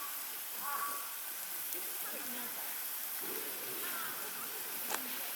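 Steady hiss of a hot pot cooking on a camp stove, with a sharp click about five seconds in.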